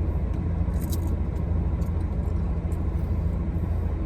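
Steady low rumble with a few faint crackles, the clearest about a second in.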